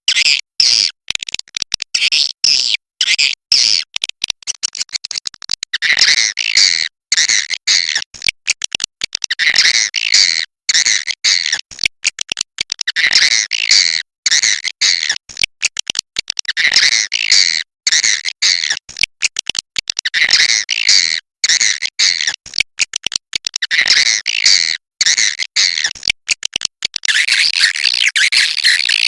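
Swiftlets twittering: dense, rapid, high chirping calls in repeated phrases, broken by frequent brief silent gaps.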